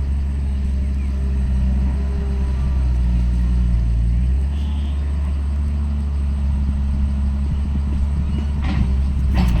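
Heavy earthmoving machine's diesel engine running steadily with a low drone. The engine note changes about four and a half seconds in, and a few knocks come near the end.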